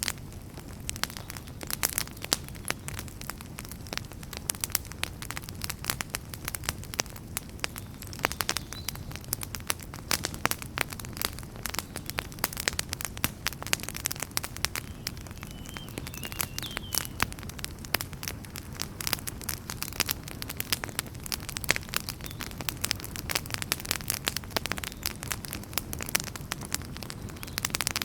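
Wood fire burning in a fireplace, with logs crackling and popping in dense, irregular sharp snaps over a steady low rumble of flame.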